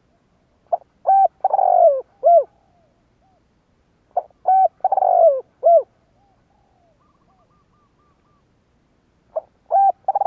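Spotted dove cooing: a phrase of a few short notes around one longer coo that falls in pitch, repeated three times about every four to five seconds. Fainter coos sound between the phrases.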